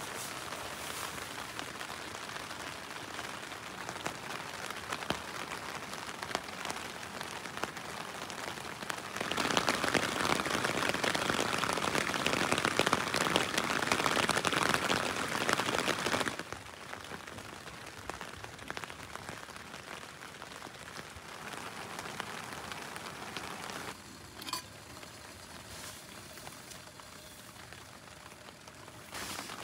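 Rain falling steadily on a tent's fabric, heard from inside the tent; it grows louder for about seven seconds in the middle, then eases, with a single faint click near the end.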